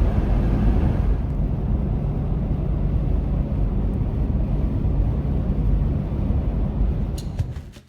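Steady low road rumble of a car in motion, heard from inside the cabin, fading out near the end.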